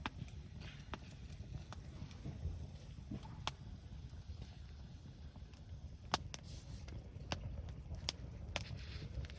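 Wood campfire crackling: sharp, irregular pops and snaps, about ten of them, over a steady low rumble.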